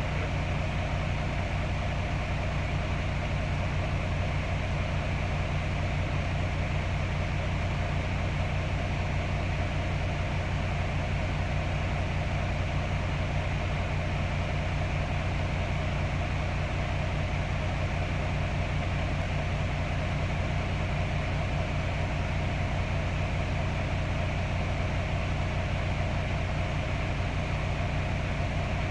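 Steady low drone of an idling engine with an even fan-like hiss, unchanging throughout.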